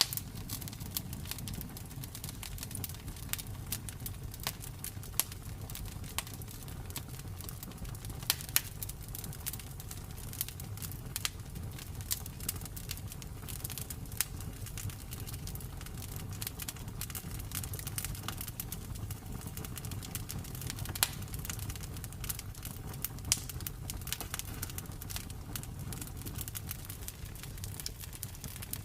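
Campfire burning with a steady low rumble and dense, irregular crackling of wood, a few sharper pops standing out.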